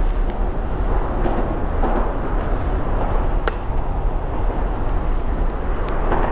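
Steady rushing wind and road noise on a helmet-mounted microphone while riding a mini bike, with a few sharp clicks.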